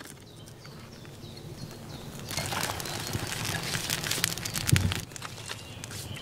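A small campfire of crossed sticks crackling, with many small sharp pops that set in a couple of seconds in and grow louder as it catches; one duller knock just before the end.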